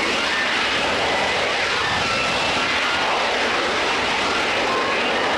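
Military jet aircraft engines running loud and steady in a flying display, with a faint whine drifting in pitch above the noise.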